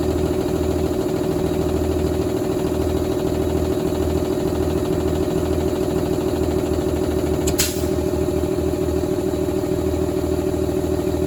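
A PACCAR PX-7 inline-six diesel engine running steadily at idle, with a pulsing low rumble. About seven and a half seconds in there is one brief sharp noise.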